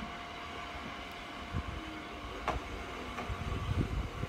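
Kotoden Nagao Line electric train drawing near, a steady running hum with one sharp click about two and a half seconds in. Low gusts of wind buffet the phone's microphone, growing toward the end.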